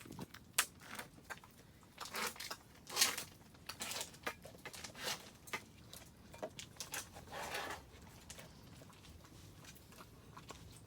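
Utensils clicking and scraping against a hot-pot pan and bowls in a run of irregular light knocks, with a few short scraping or slurping smears.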